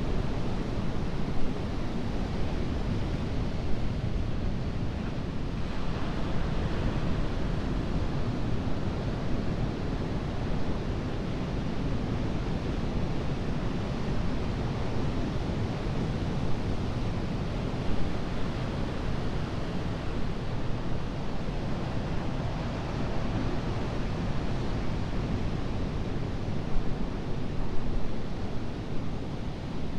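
Ocean surf washing onto a beach: a steady, continuous rushing of breaking waves.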